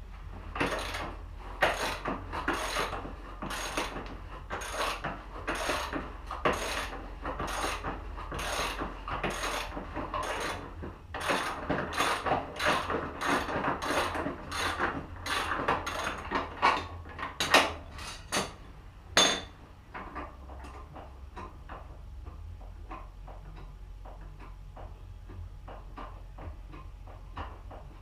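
A hand tool worked in steady repeated strokes, about two a second, for nearly twenty seconds, with a few sharper clacks near the end of the run. Fainter scattered ticks follow.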